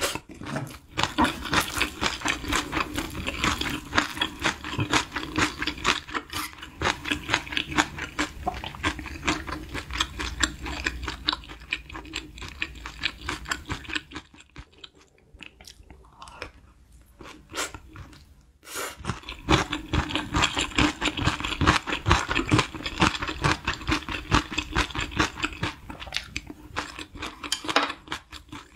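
Close-miked mouth sounds of a person eating crispy fried rice: dense, quick crunching and chewing clicks, easing off for a few seconds around the middle before picking up again.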